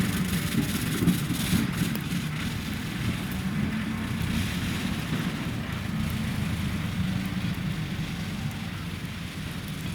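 Sasara snow-sweeper tram running on the track, its rotating bamboo brushes sweeping snow off the rails: a steady low rumble with a rushing hiss that slowly fades as it moves away.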